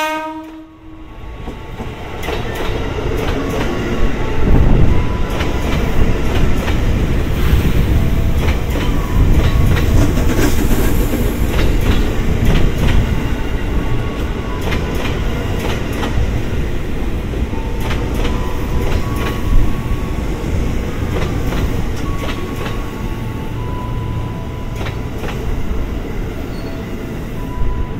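Japanese-built electric commuter train running along the platform: a steady heavy rumble with many rail clicks and scattered brief high squeals. A short horn note sounds at the very start.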